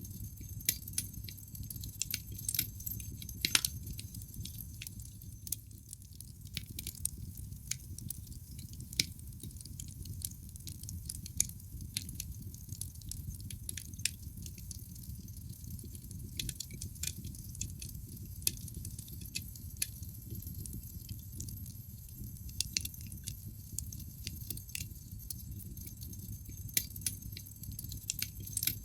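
Wood fire in a fireplace crackling, with irregular sharp pops and snaps from the burning logs over a low steady rumble of the flames.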